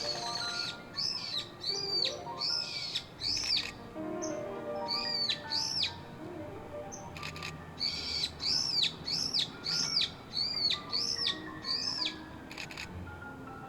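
Common kingfisher giving a series of high, shrill piping calls, about two a second, in three bouts. Piano music plays underneath.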